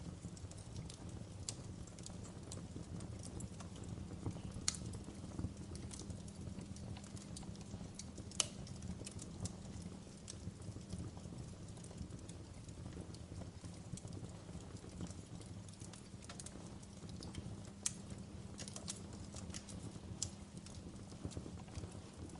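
Wood fire burning in a fireplace, crackling: a steady low rumble under many irregular sharp pops and snaps, a few louder ones standing out about 5, 8 and 18 seconds in.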